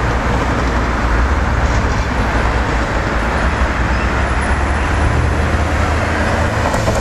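Queensland Rail electric Tilt Train rolling slowly into a station platform: a steady running rumble with a low hum underneath.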